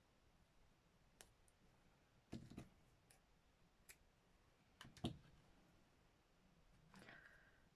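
Near silence with scattered faint clicks and light knocks from small sewing tools and materials being handled, the loudest a little past halfway.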